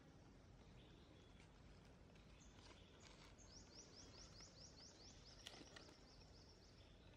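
Near silence with a faint steady hiss. In the middle a small bird gives a quick series of about ten high, rising chirps, about five a second, and a single sharp faint click sounds near the end of that series.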